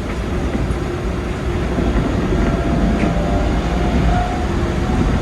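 Keikyu 2100 series electric train running along the line, heard from the driver's cab: a steady rumble of wheels on rails. A faint steady whine joins about two seconds in.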